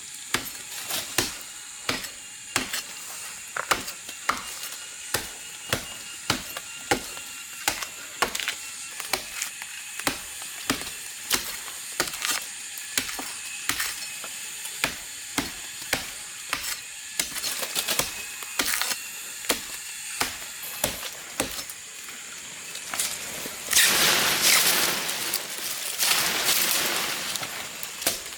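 Steady chopping with a blade on wood, about two strokes a second. Near the end come two loud bursts of hissing.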